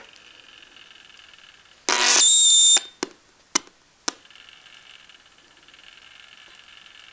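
Electronic sound effect from small speakers: a loud buzzy beep with a steady high tone about two seconds in, lasting just under a second, then three short clicks about half a second apart, over a faint steady electronic whine.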